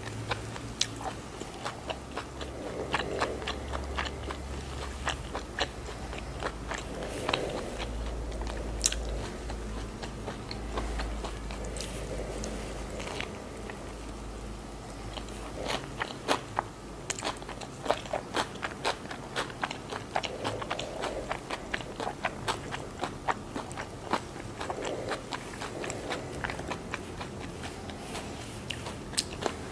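Close-miked chewing and biting of a Vietnamese fresh spring roll (rice paper wrapped around shrimp and lettuce): a steady run of sharp mouth clicks and crunches from the filling.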